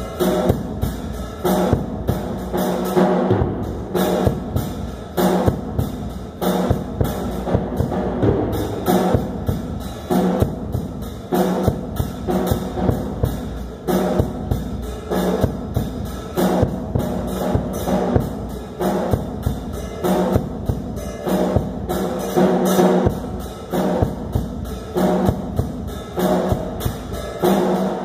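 Drum kit played in a steady repeating beat, bass drum and snare with ringing drum tones.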